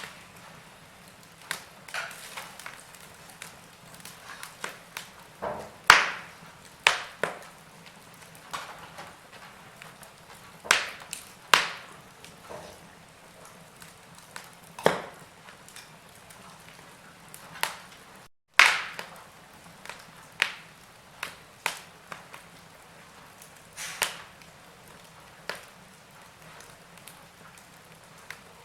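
Wood fire crackling in a fireplace: irregular sharp pops and snaps, about one or two a second, over a faint steady hiss, with a brief dropout to silence about two-thirds of the way through.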